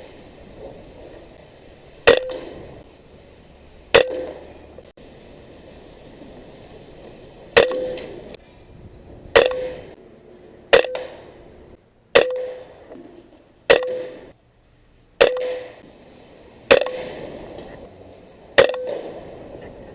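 Benjamin Marauder .22 PCP air rifle firing about ten shots in a row, one every one to two seconds. Each shot is a sharp crack with a short ringing tail.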